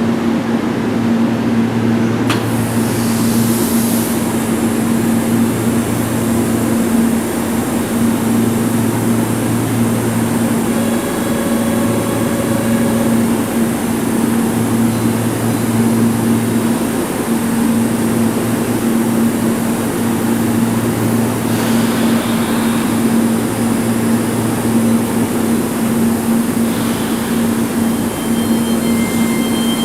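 Keihan 3000-series electric train humming steadily, with a low drone that comes and goes every couple of seconds.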